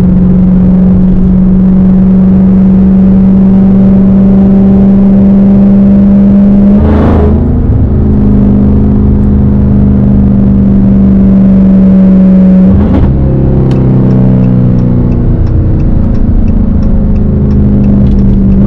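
Straight-piped Dodge Hellcat's supercharged 6.2-litre V8 running loud and steady, with its drone shifting pitch after short bursts about a third and two-thirds of the way through. A light, regular ticking comes in past the halfway point.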